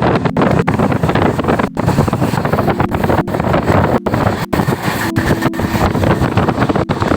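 Wind buffeting the microphone over the running noise of a moving train, with the sound dropping out for an instant many times.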